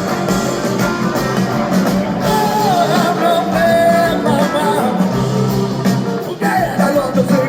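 Live rock band music with the full band playing and a lead line sliding up and down in pitch over it.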